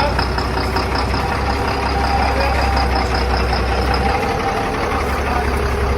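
A vehicle engine idling steadily with a deep, even hum.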